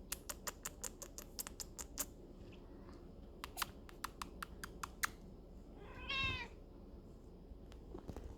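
A Maine Coon kitten mews once, a short high call that rises and falls, about six seconds in. It comes after two runs of quick sharp clicks in the first five seconds.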